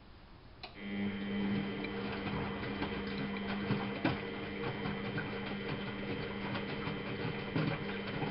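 Miele Novotronic W830 washing machine: a motor starts with a click less than a second in, then runs with a steady hum and light rattling and ticking.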